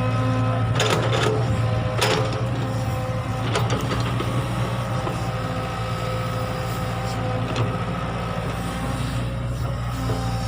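Excavator's diesel engine running steadily at a constant pitch, with a few sharp knocks and clanks of the machine working, mostly in the first four seconds.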